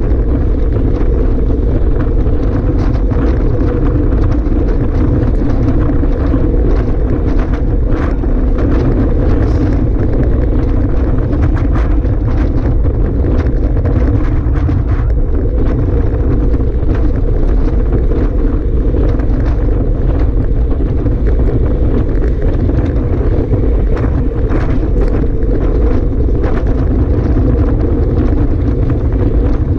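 Strong wind buffeting the microphone: a loud, steady rumble with frequent small crackles.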